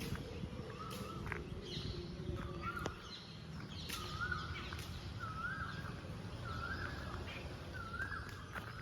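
A bird calling the same short note over and over, about once a second, with a few higher chirps from other birds now and then, over a steady low outdoor rumble.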